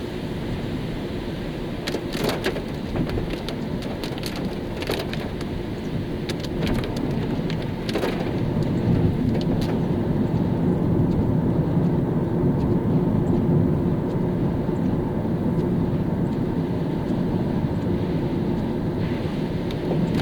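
A car driving on a rain-wet road: steady tyre hiss and road rumble, with a few sharp clicks in the first part. The rumble grows louder about eight seconds in as the car picks up speed.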